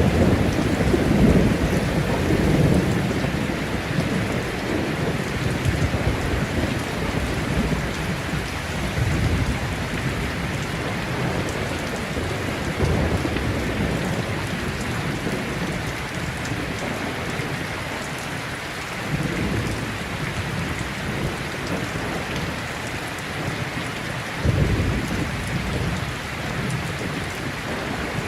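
Heavy rain falling steadily in a thunderstorm, with thunder rumbling low again and again, swelling and fading away, and a sudden louder clap about 24 seconds in.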